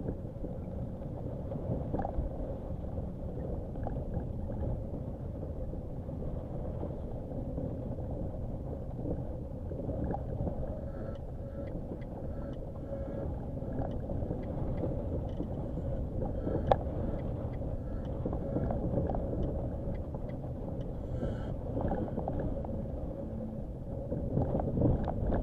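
Nissan Qashqai 4x4 driving over a rough dirt track: a steady low rumble with a faint steady hum, broken by scattered knocks and clicks from the uneven ground, the sharpest about seventeen seconds in and a louder jolting stretch near the end.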